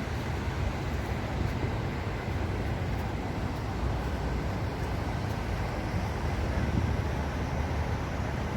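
Steady rushing of a large man-made waterfall pouring into a canal, with a heavy, even low rumble under it and no breaks.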